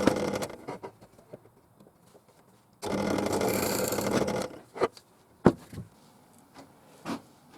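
Bench drill running as an 8 mm bit bores a shallow hole into wood. The run stops just after the start and starts again for about a second and a half about three seconds in, followed by a few sharp knocks.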